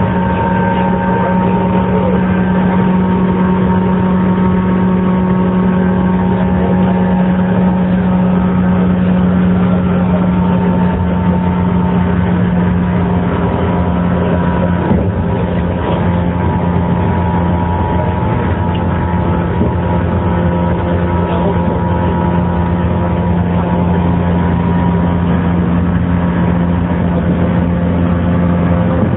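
JR 115 series electric train (KuMoHa 115-1536) running at a steady pace: a steady traction-motor and gear hum under wheel-on-rail noise, with a single knock about fifteen seconds in.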